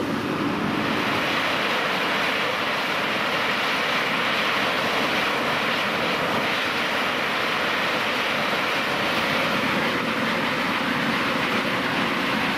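Volcanic fumarole jetting steam with a steady rushing hiss.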